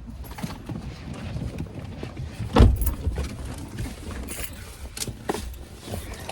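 Steady low rumble of a car, with light clicks and jingles and a sharp knock about two and a half seconds in.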